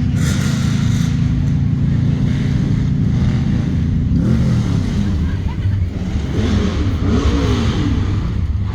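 Car engines running with a loud, steady low rumble, then revved repeatedly from about four seconds in, the pitch rising and falling with each rev.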